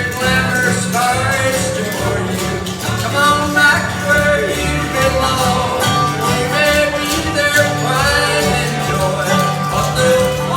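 Bluegrass band music with guitar, played at a steady level.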